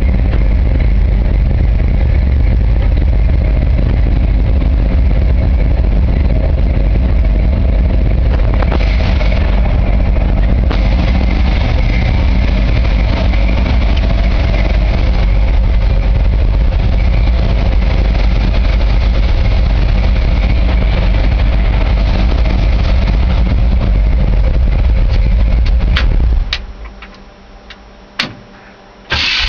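1967 Chevy C-10's 350 small-block V8, bored .040 over with a 287-duration cam and Flowmaster dual exhaust, idling steadily. Near the end the engine sound drops away for a couple of seconds, with a few clicks, then comes back loud just before the end.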